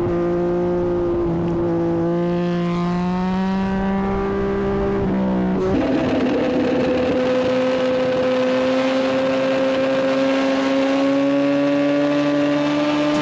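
A motorcycle engine running with a wavering pitch. About six seconds in it changes abruptly to a BMW S1000RR's inline-four engine pulling steadily, its pitch rising slowly, over a hiss of wind and road noise.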